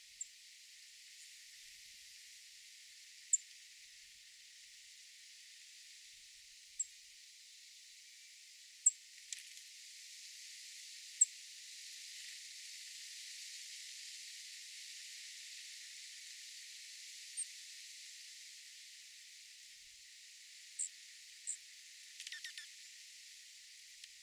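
Small birds giving short, high chip calls every few seconds over a steady outdoor hiss, with a quick rattle of clicks near the end.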